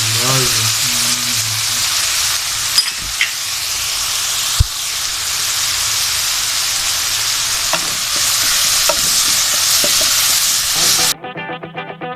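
Chicken and carrots sizzling in hot oil and sauce in a pan while being stirred, with a few sharp clicks of the utensil against the pan. About a second before the end the sizzling cuts off suddenly and music begins.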